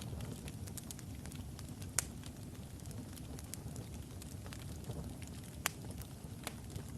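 Logs burning in a fireplace: a steady low rumble of flames with scattered crackles, and two sharper pops, about two seconds in and again near six seconds.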